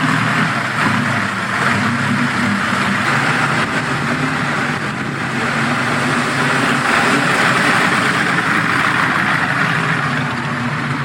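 The Napier Railton's 23.9-litre Napier Lion W12 aircraft engine idling steadily, a deep low running note.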